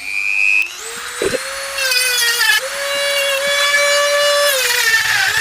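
Dremel rotary tool with a cut-off disc spinning up to a high whine, then cutting into the old wheel bearing's steel outer race on the hub. Its pitch dips twice as the disc is pressed into the metal.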